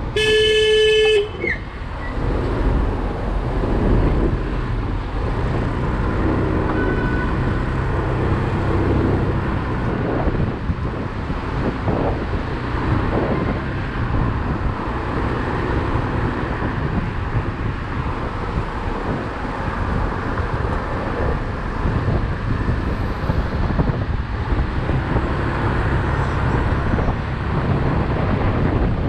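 A vehicle horn honks once for about a second at the start, a single steady note. After that comes the steady rumble of a motorcycle riding in city traffic, with road and wind noise.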